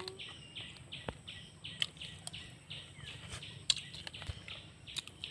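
Faint bird chirps, short calls repeating about three times a second, with a few scattered sharp clicks.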